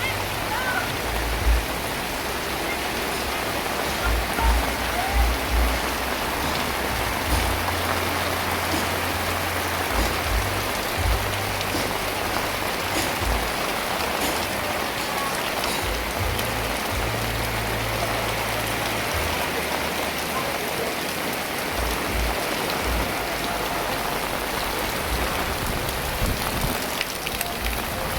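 Heavy rain falling steadily, a dense even hiss, with irregular low rumbles of wind buffeting coming and going.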